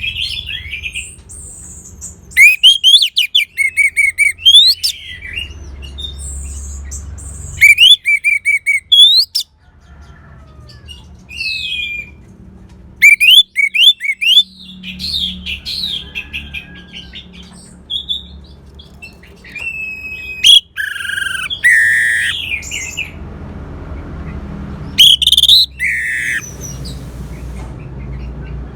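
Orange-headed thrush singing: loud bursts of fast, rising and falling whistled phrases, separated by short pauses. A low hum runs underneath.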